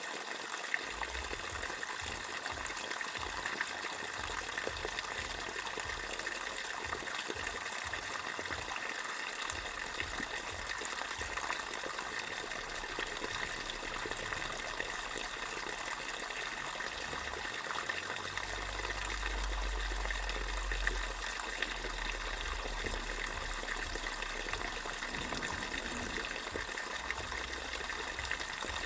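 Water gushing steadily from a pipe.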